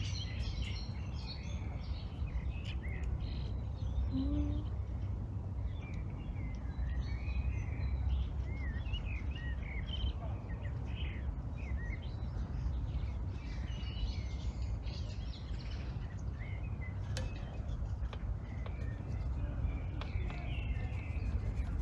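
Small songbirds chirping and warbling on and off, over a steady low rumble of outdoor background noise.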